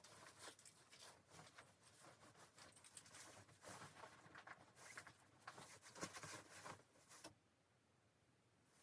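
Faint, irregular rustling with small clicks and scrapes, which stops about seven seconds in.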